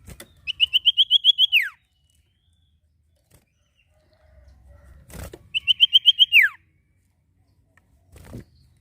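A sirtu songbird singing two phrases, each a fast run of about nine short, bright notes that ends in a quick falling slide. Short knocks sound at the start, between the phrases and near the end.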